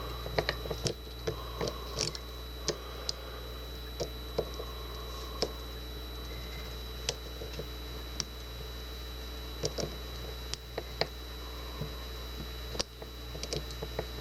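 Short hook pick and tension tool working the pin stack of a Kwikset deadbolt: small, irregular metallic clicks and ticks as pins are probed and set, over a steady low hum.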